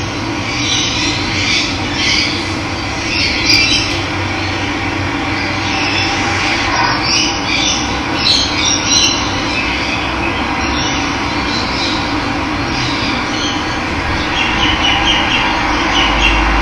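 Running water with wild birds calling intermittently over it.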